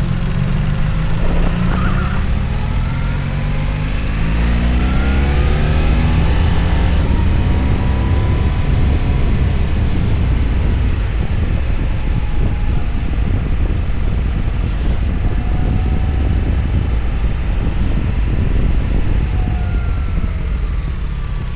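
BMW R1300GS boxer-twin motorcycle engine running while riding, its pitch rising and falling with the throttle, over a heavy low rumble.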